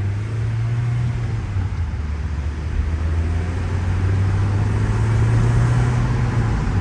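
Car with a manual gearbox driving: the engine runs as a steady low hum, rising a little in pitch and then dropping near the end as it shifts, over tyre and road noise heard from inside the cabin.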